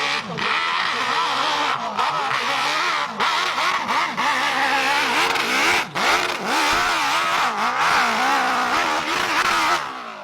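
Hill-climb motorcycle engine revving hard, its pitch rising and falling again and again as the throttle is worked, with a few brief drops, then cutting off just before the end.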